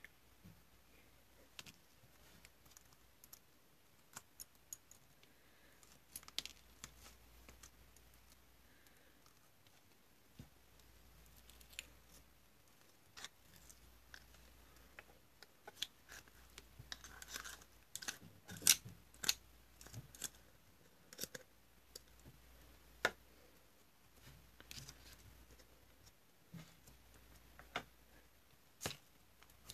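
Slime being squeezed and pressed by hand, giving scattered small clicks and pops, busiest about halfway through.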